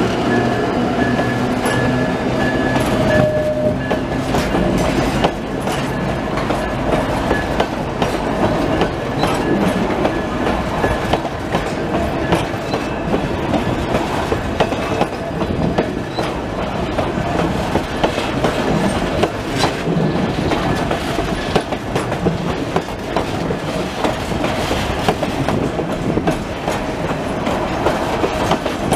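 Narrow-gauge passenger coaches rolling slowly past close by, their steel wheels clicking over the rail joints over a steady rumble. A diesel locomotive's engine hum trails away in the first few seconds.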